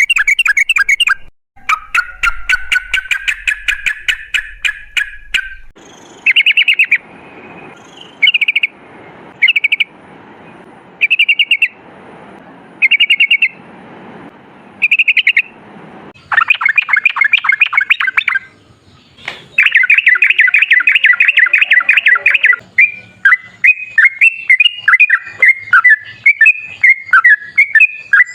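Yellow-vented bulbul (trucukan) singing loud, fast rolling chattering trills. There are long runs of rapid notes, a stretch of short bursts every second or two in the middle, and then long trills again with varied chirping phrases near the end.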